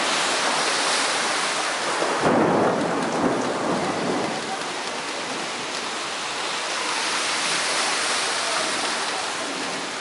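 Heavy rain pouring steadily, with a low rumble of thunder rolling in about two seconds in and fading away.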